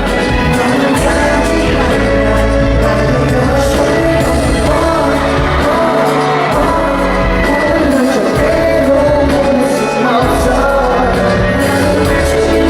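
Live pop concert: a male singer over loud amplified music with a steady low beat, filling a large hall.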